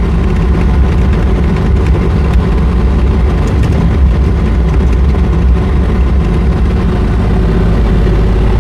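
JoyT5 JT5350 3.5-ton mini excavator's engine running steadily at raised throttle while the machine travels.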